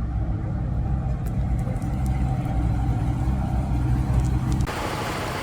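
Military truck engine idling with a steady low rumble. About three-quarters of the way through it gives way abruptly to a lighter, hissier steady noise.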